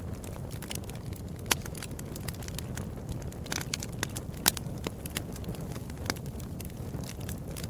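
Wood fire in a fireplace crackling, with a steady low rumble of flames under many quick snaps. Two sharp pops stand out, about a second and a half in and about four and a half seconds in.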